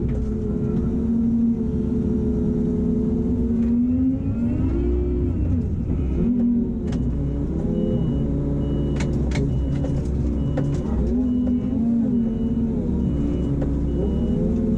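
A loader's diesel engine runs steadily, its revs dropping and rising several times as the machine drives back to the pile. From about halfway through, a high short beep repeats at an even pace, under a second apart, and there are a few sharp knocks.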